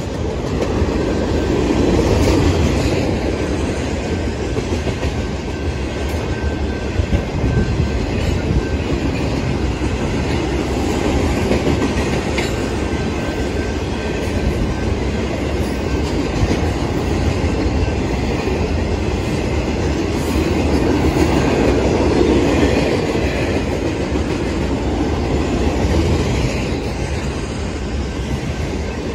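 Freight train boxcars rolling past at speed: a steady rumble of steel wheels on rail with a clickety-clack over the rail joints.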